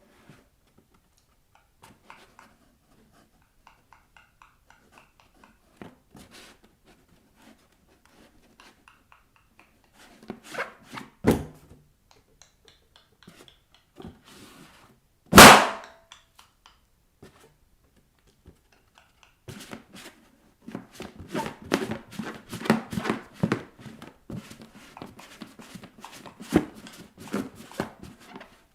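Bare feet on latex balloons. Faint rubbing and squeaks, then a thump about 11 seconds in and a single loud balloon pop about halfway through. The last third is a long stretch of dense, rapid crackling and rubbing as the feet scratch and press the rubber.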